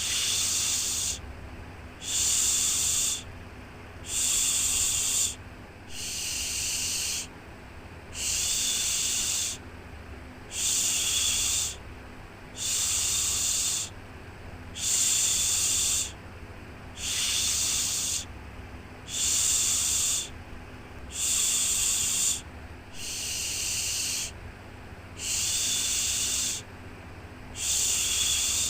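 A voice making a repeated 'shhh' shushing sound, one hiss about every two seconds, each lasting about a second, used as white noise to soothe a baby to sleep.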